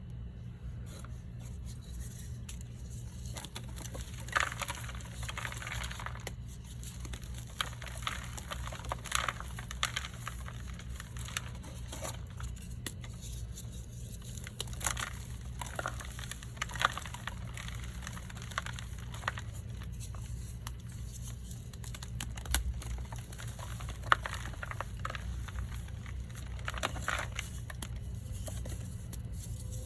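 Pressed blocks of gym chalk and baby powder ("reforms") being crushed, giving irregular dry crunches and crackles, one sharper snap about three-quarters of the way through. A steady low hum underlies it.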